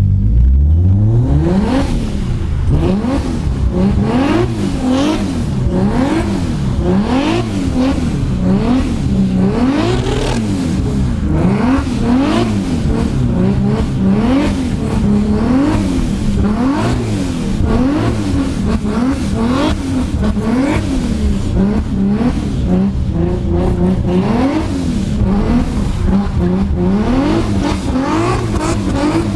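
A tuned car engine revved up and down over and over, its pitch rising and falling about once a second.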